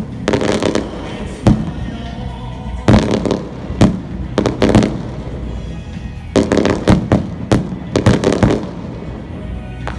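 Fireworks bursting overhead in irregular clusters of sharp bangs and crackles, several every second or two, over steady background music.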